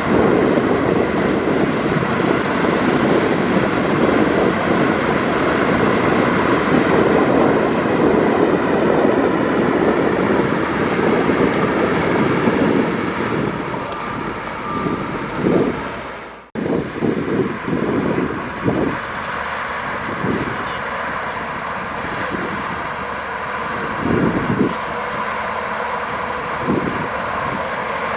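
Heavy diesel earthmoving machinery running close by, a dense, steady engine and mechanical din. It breaks off abruptly about two-thirds of the way in and resumes somewhat quieter, with short surges every few seconds.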